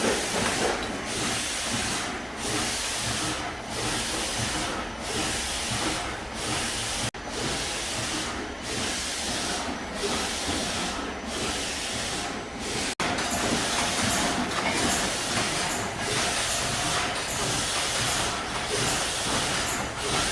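Sink drain pump running with water rushing through it: a steady hiss that swells and dips in a regular rhythm. It breaks off suddenly twice, and in the last part the pulses come faster.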